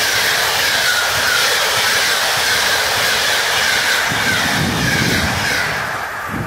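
Passenger coaches of a locomotive-hauled express train passing close by at speed. The wheels on the rail make a steady loud rush with a faint wavering squeal, which cuts off about six seconds in as the last coach clears.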